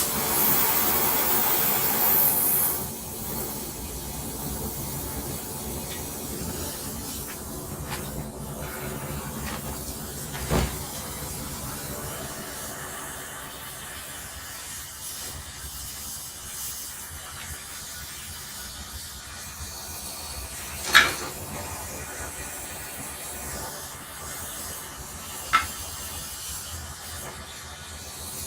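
A torch flame hissing steadily while it heats a stuck rear brake drum to free it. The hiss is loud for the first two or three seconds, then settles lower, and three single sharp knocks fall a third of the way in, about three-quarters of the way in and near the end.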